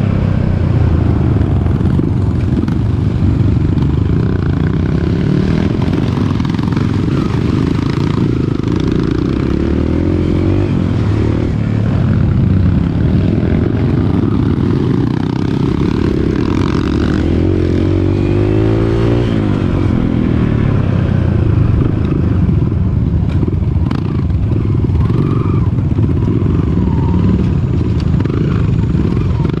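Dirt bike engine running while riding a trail, its revs rising and falling, with a few knocks and rattles from the bike.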